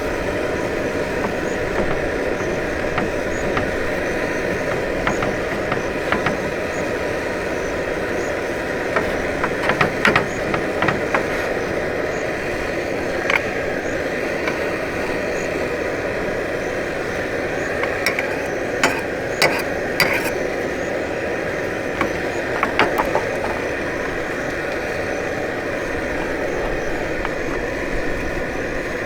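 A vehicle running steadily, with short clicks and rattles scattered through it, grouped a few times about a third of the way in and again past the middle.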